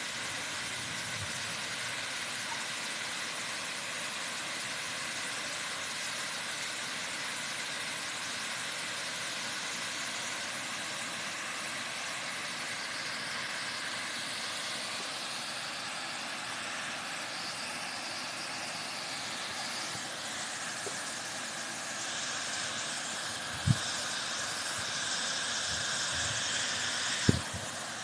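Waterfall: a steady rush of falling water, with two short knocks near the end.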